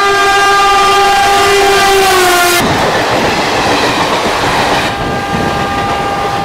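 Electric locomotive horn held long and loud as the train approaches, its pitch sliding slightly down before it cuts off about two and a half seconds in. Then comes the rushing noise of the train passing at speed, easing a little near the end.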